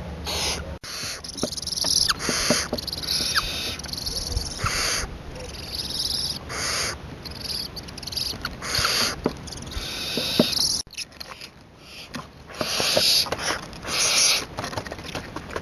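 Young barn owl giving repeated short, harsh hissing calls, about one a second, typical of a fledgling barn owl's begging call.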